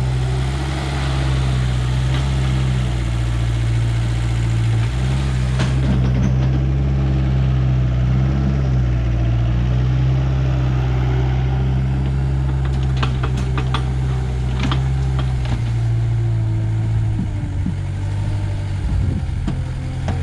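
Backhoe's diesel engine running steadily under varying load, its note shifting a few times as it works, with a cluster of sharp knocks about two-thirds of the way through.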